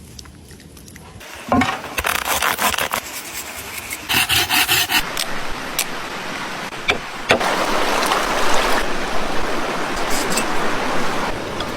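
Rubbing and scraping on a rough surface, first in short strokes, with a quick run of strokes about four seconds in, then a longer continuous rasp.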